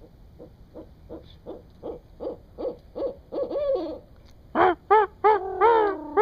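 An owl hooting: a run of short hoots that come faster and faster, then several loud hoots near the end, the last drawn out and falling in pitch. The hoots are an agitated reaction to people close by.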